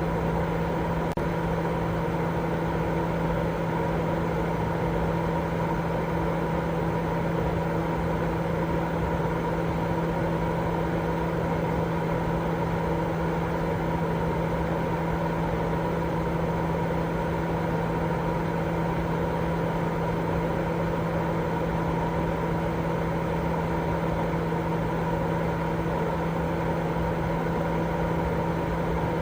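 Baby white-noise sleep track: a steady, unchanging rushing noise with a constant hum running through it, like a running machine.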